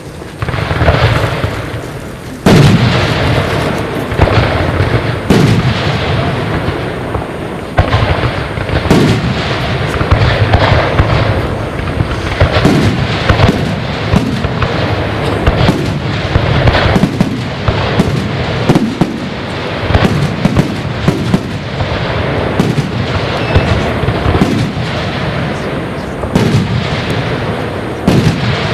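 Aerial fireworks display: shells bursting one after another, a bang every second or so, over continuous crackling and rumbling.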